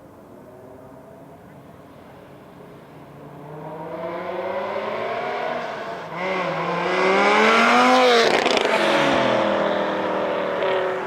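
Porsche 992 GT3 RS's naturally aspirated flat-six through a Brillsteel Motorsport Edizioni Corsa aftermarket exhaust, accelerating toward the listener with a rising engine note, passing about eight seconds in as the pitch drops, then going away.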